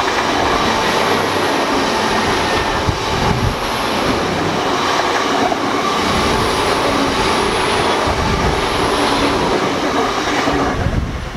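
Great Western Railway Hitachi Intercity Express Train passing at speed: a steady noise of wheels on rail and train running. It fades quickly near the end as the last carriage goes away down the line.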